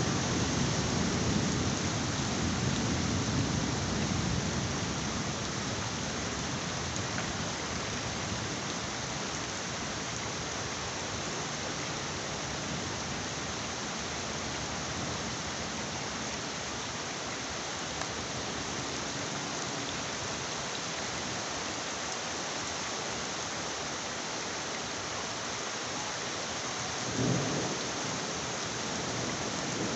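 Heavy rain falling steadily, with a low rumble of thunder dying away over the first few seconds and another short rumble near the end.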